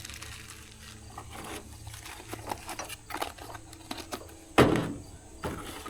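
Light clicks and knocks of replacement parts being handled and sorted, with one louder sharp clunk a little past halfway.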